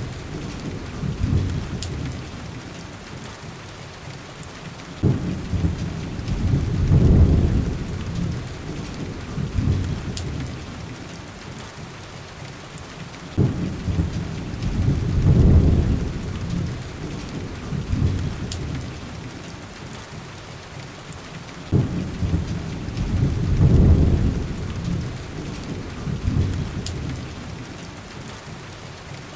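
Heavy rain on window glass with deep rolls of thunder. About every eight seconds a rumble starts suddenly, swells and dies away under the steady rain, and a few faint sharp ticks come through now and then.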